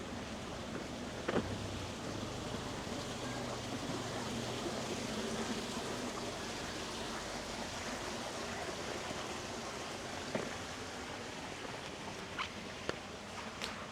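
Steady rush of flowing river water, with a faint low hum in the first half. There is one sharp click about a second in and a few lighter clicks near the end.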